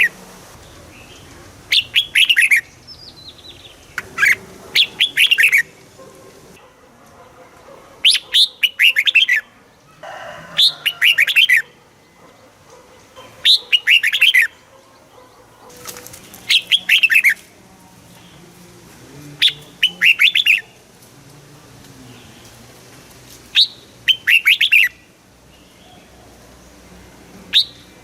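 Red-whiskered bulbul singing: a short, loud phrase of quick whistled notes sliding downward, repeated about every three seconds.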